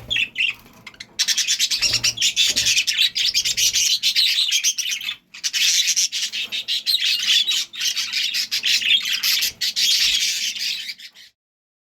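English budgerigar chattering: a fast, continuous stream of high chirps and warbles with a short break in the middle. It cuts off suddenly near the end.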